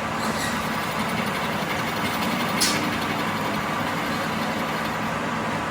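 Steady machine running noise, with one sharp click about two and a half seconds in.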